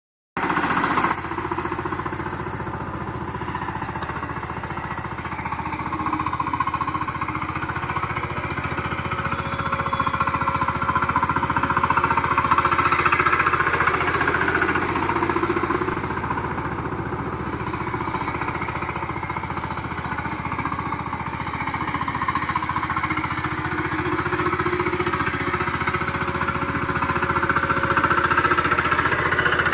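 VST Shakti 130 power tiller's single-cylinder diesel engine running steadily with a rapid, even chugging. The level slowly rises and falls a few times, as if the tiller moves nearer and farther.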